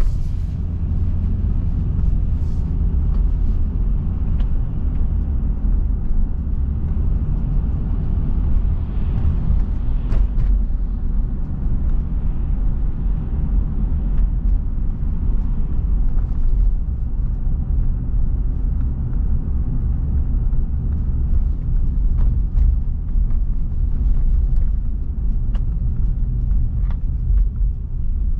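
Car driving along a road: a steady low rumble of road and tyre noise, with a few faint clicks now and then.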